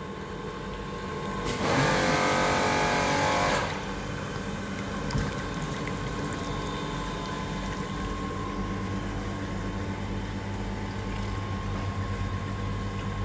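Heater-core flushing machine's pump running steadily, circulating water through a car's heater core, a continuous hum with a few steady tones. A louder stretch of several steady tones comes about two seconds in, and the low hum grows stronger past the middle.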